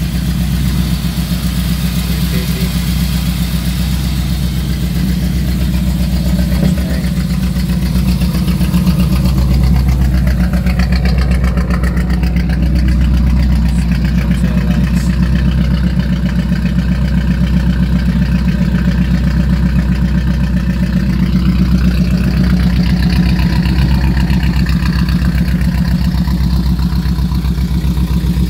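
1985 Chevrolet Monte Carlo SS's V8 engine idling steadily.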